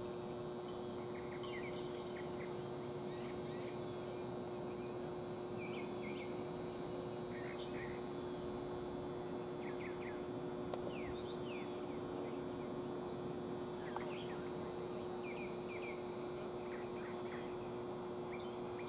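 Birds chirping in short, scattered calls over a steady outdoor background with a constant hum.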